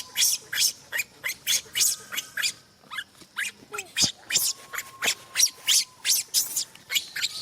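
A fast series of short, sharp, high squeaks from a pet monkey, about three a second, with a brief pause about three seconds in.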